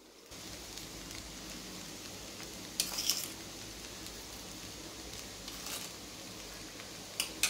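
Poha in a hot kadhai over the gas flame sizzling faintly and steadily, with a few brief clinks of a metal spoon against the pan around three seconds in, again near six seconds and near the end.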